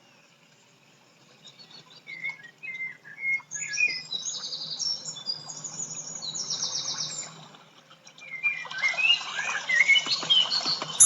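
Birds chirping and singing in a busy chorus of short calls, starting about a second and a half in, with a brief lull shortly before the end.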